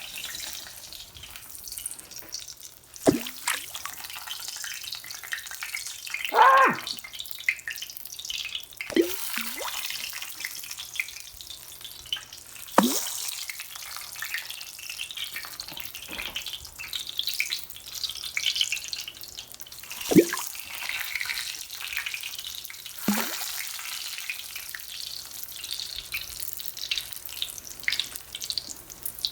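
Frozen breaded nuggets frying in hot oil in a pan: a steady sizzling crackle, broken by a few sharp clicks and knocks.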